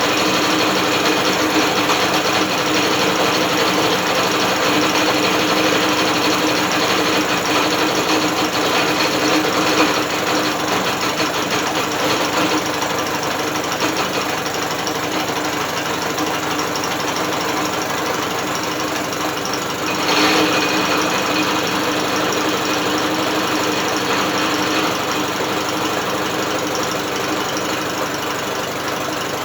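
British Seagull outboard motor being turned over by an electric drill rather than running on its own, giving a steady mechanical whir and rattle of the drill and the engine's moving parts. It eases slightly about ten seconds in and surges briefly around twenty seconds.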